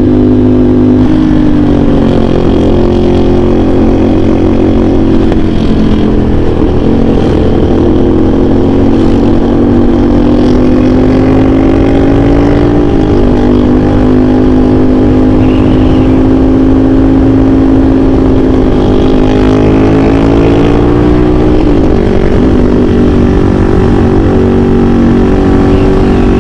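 CFMOTO 450SR S motorcycle's parallel-twin engine running through an aftermarket AR exhaust while riding, its note held steady for long stretches and dipping and picking up again about four times.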